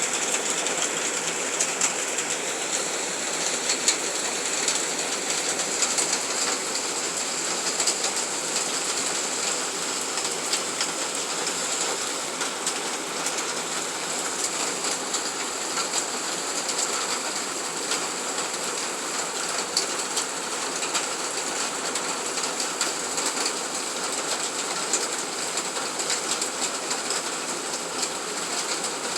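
Steady rain falling, with scattered drips ticking through it.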